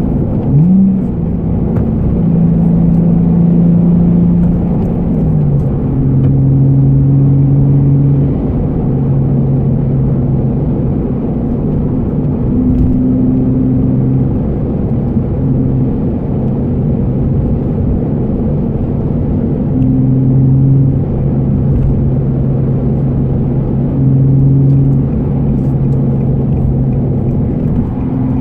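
Nissan Fairlady Z34's 3.7-litre V6 with an aftermarket muffler, heard from inside the cabin while cruising lightly at steady, moderate revs. The engine note rises about a second in and drops back around five seconds in, then holds with small changes in pitch.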